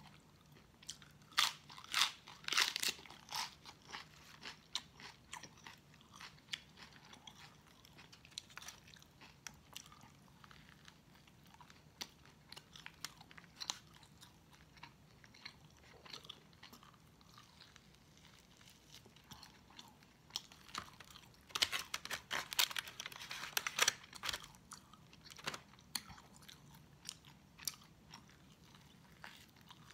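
Close-miked eating sounds: crisp crunching bites of raw lettuce and chewing of baked pork loin. There are loud bursts of crunching about two seconds in and again about three-quarters of the way through, with softer chewing and mouth sounds in between.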